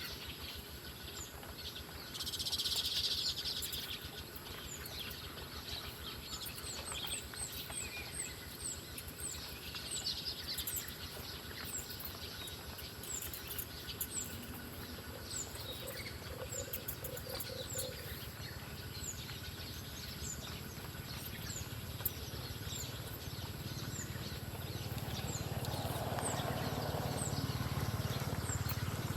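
Small wild birds calling outdoors: many short, high chirps that fall in pitch, repeated every second or so. There is a brief louder hiss about two seconds in, and a low rumble builds near the end.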